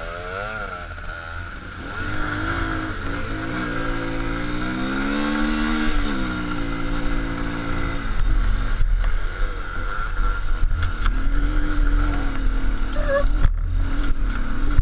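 A vehicle's engine revving, its pitch rising and falling several times as it is driven up a forest road that the occupants say is very slippery.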